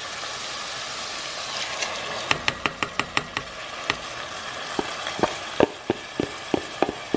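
Chicken thigh pieces, onion and ginger frying in oil in a stainless steel pan with a steady sizzle. Sharp pops start about two seconds in, a quick cluster and then single pops spaced out, as uncooked rice goes into the hot oil.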